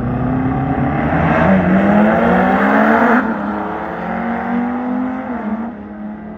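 Car engine accelerating hard, its pitch climbing. Loudest about three seconds in, it drops sharply, then climbs again more quietly before settling to a lower drone.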